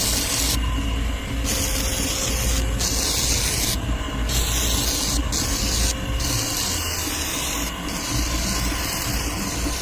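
High-pressure water jet from an AC-service jet pump spraying in repeated bursts, about seven starts and stops, over the pump motor's steady low drone.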